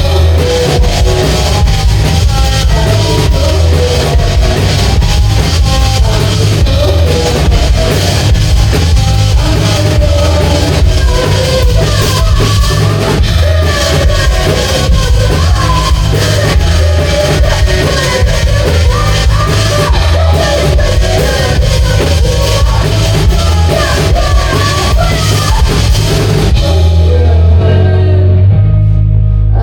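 A rock band playing loud heavy music live, with drums, guitar and bass. About 27 seconds in, the drums and cymbals drop out and only low held notes go on.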